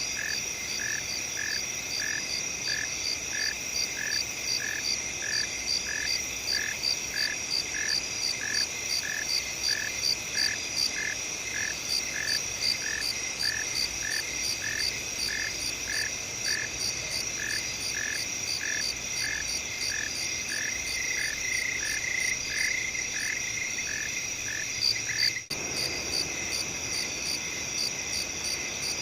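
Night field chorus: crickets trill steadily while a frog calls in a regular rhythm about twice a second. The frog calls stop abruptly about 25 seconds in, and the cricket trilling carries on.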